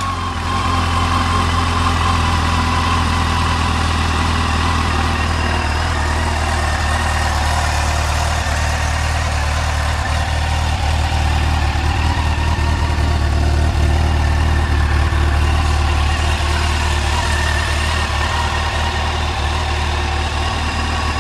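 Yamaha FJR1300AE motorcycle's inline-four engine idling steadily, just after being started.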